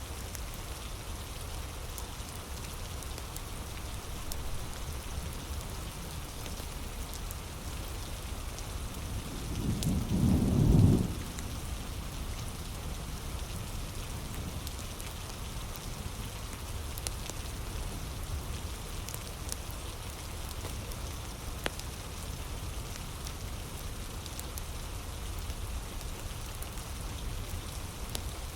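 Steady heavy rain, with a low rumble of thunder about ten seconds in that swells and fades over roughly two seconds. A few faint sharp crackles from a fire sit under the rain.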